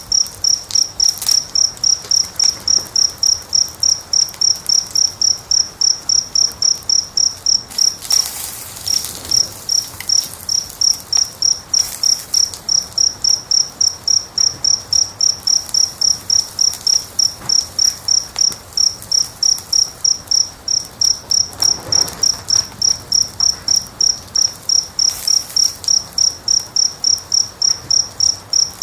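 A cricket chirping steadily, about three short high chirps a second, with a brief break about eight seconds in. Faint pops and hiss from a crackling wood fire come and go beneath it, loudest about eight and twenty-two seconds in.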